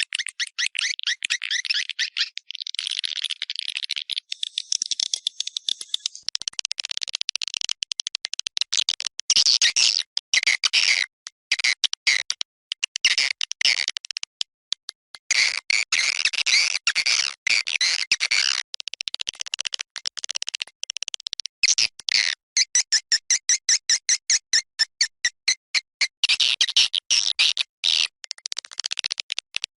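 Recorded swiftlet calls played as an external lure sound for a swiftlet house: fast trains of high-pitched chirping clicks that come in rapid bursts with short gaps between them.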